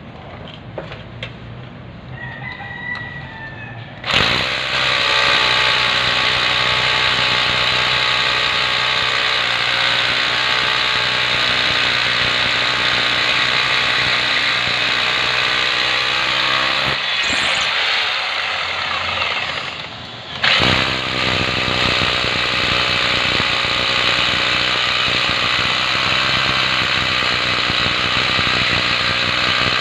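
Power drill boring into a concrete slab, starting suddenly about four seconds in, stopping for a few seconds past the middle, then starting again. It is drilling the anchor holes that fix the core drill's base so it will not shift during coring.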